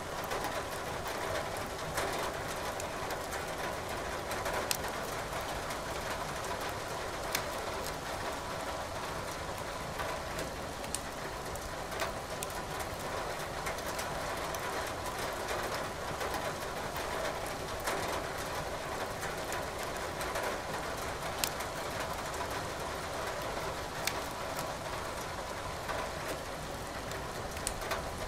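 Firewood crackling in a fireplace, with sharp pops every few seconds over a steady hiss of rain.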